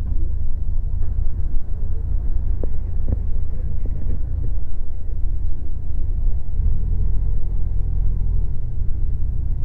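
Vehicle engines rumbling low and steady. A deeper, louder rumble swells for a second or two about two-thirds of the way through.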